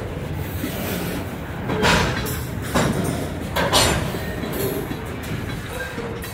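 Freight train of covered hopper cars rolling past close by: a steady rumble of steel wheels on the rails, with a few louder clacks of wheels passing over the track about two, three and four seconds in.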